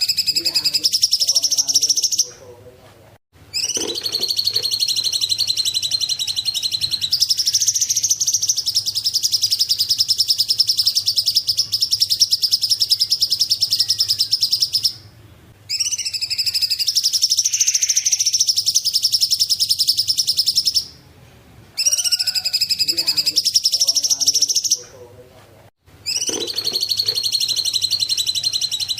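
Cungkok songbird singing long, rapid, high-pitched trills that run for several seconds each, with short pauses of about a second between them.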